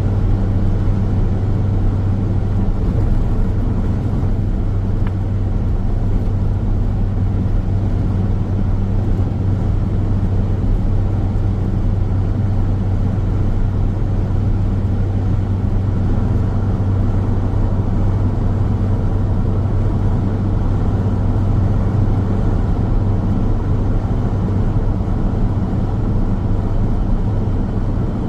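Car driving steadily on the highway: continuous road noise, a low, even drone of tyres and engine with no changes.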